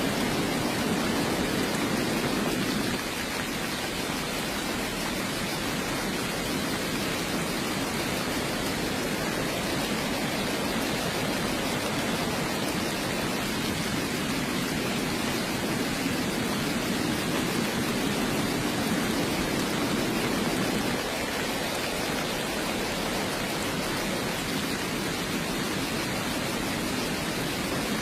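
Steady heavy rain, a dense even hiss, with a lower rumbling layer that eases about three seconds in and swells again briefly later.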